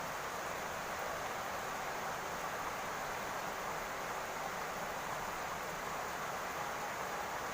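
Steady rain falling on a roof, an even hiss with no breaks.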